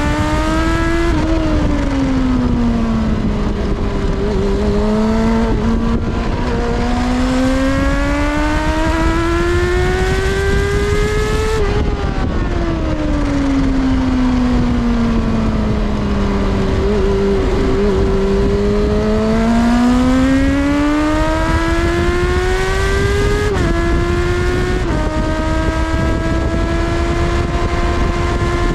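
Kawasaki ZXR400's inline-four engine heard onboard at speed, pitch climbing in long pulls under acceleration and falling away under braking, with sudden steps at gear changes about two-thirds of the way through. Heavy wind rush runs beneath it.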